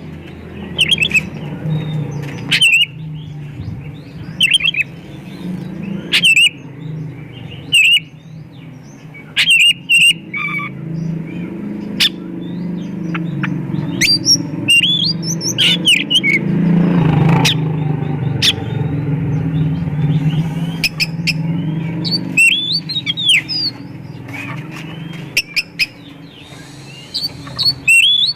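Oriental magpie-robin (kacer) singing in loud, rapid spurts of sharp chips and curved whistled notes, its song full of phrases mimicked from other birds. A steady low hum runs underneath.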